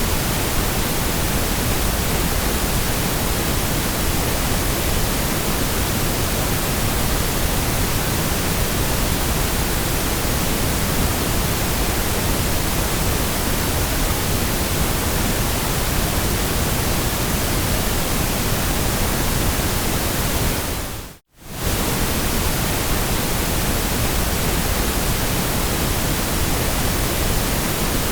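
Steady white noise, an even hiss spread from deep rumble to high hiss. About two-thirds of the way through it briefly fades to silence and comes straight back within about half a second.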